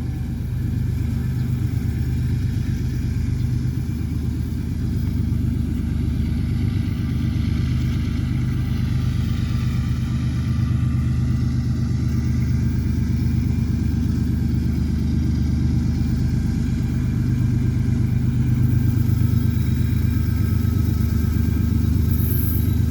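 Diesel locomotive engines running with a steady low rumble as a freight train goes by.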